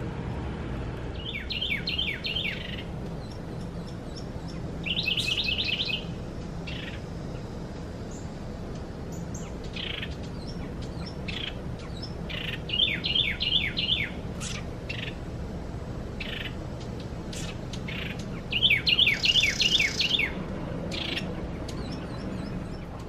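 Wild songbird singing a short phrase of quick repeated notes four times, several seconds apart, with scattered single chirps between, over a steady low background hum.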